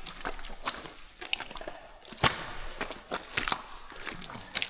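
Footsteps in wet, sticky mud: irregular squelches, crunches and clicks as boots sink in and pull free, with one sharper click about two seconds in.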